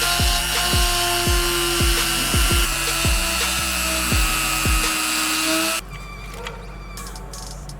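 A small high-speed rotary tool running with a steady whine and hiss, cutting off suddenly about six seconds in. Background music with a steady thumping beat plays underneath.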